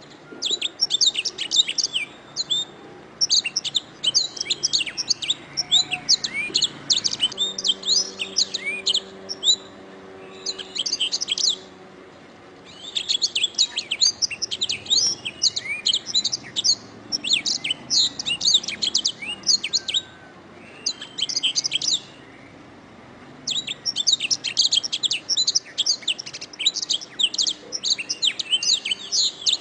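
Domestic canary singing long phrases of rapid, high trills and chirps, with short pauses between the phrases.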